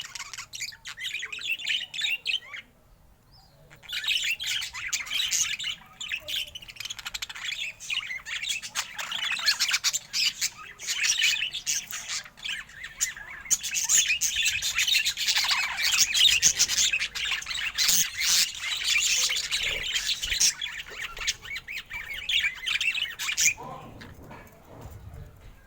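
Budgerigars chattering and warbling: long runs of rapid squawks, chirps and clicks, with a brief pause a few seconds in and a fade near the end.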